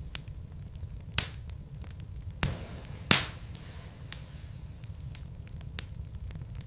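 Wood logs burning in a fireplace, crackling with scattered sharp pops over a steady low rumble; three louder pops come about a second, two and a half and three seconds in, the last the loudest.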